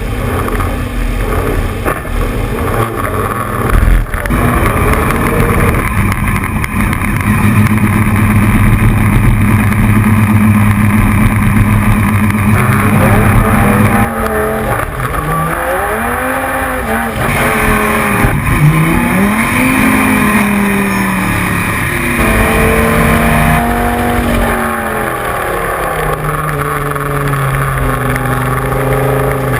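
Dodge Viper GT3's V10 racing engine under load at speed, holding a steady high note for several seconds. About halfway through, the revs drop sharply and then rise and fall repeatedly. Near the end the note steps through gear changes.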